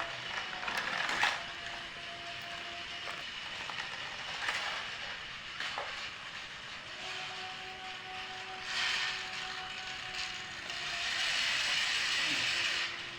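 Small electric motor of a mini toy tractor whining steadily in spells, with short bursts of scraping hiss as it moves, the longest near the end.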